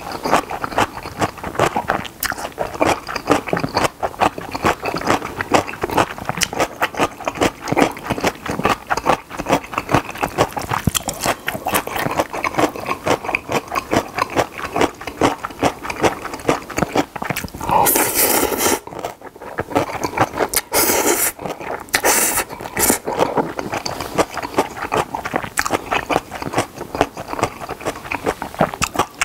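Close-miked wet chewing and mouth smacking of jjapagetti black-bean noodles and danmuji pickled radish. Loud slurps of noodles about eighteen seconds in and again a few seconds later.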